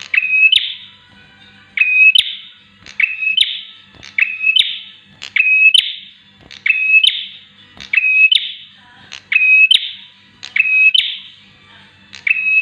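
Bar-winged prinia calling in a loud, regular loop: every second and a quarter or so, a short steady note followed by a rising buzzy note, about ten times over.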